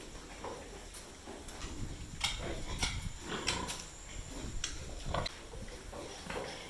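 Pigs grunting and squealing, a string of short, sharp calls scattered a second or so apart.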